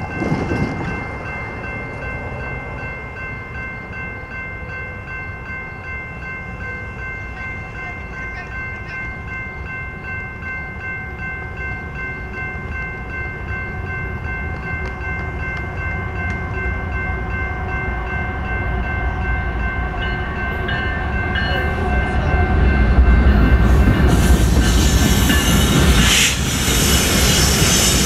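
Grade-crossing warning bell ringing steadily as a BNSF freight train approaches. The rumble of its diesel locomotives builds from about halfway through and turns loud over the last few seconds as the lead locomotive reaches the crossing.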